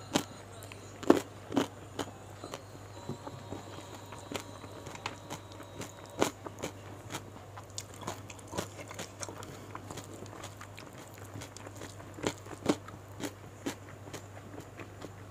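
Close-up eating sounds picked up by a clip-on microphone: irregular crunchy bites and chewing of fried gourami, with several louder crunches, over a low steady hum.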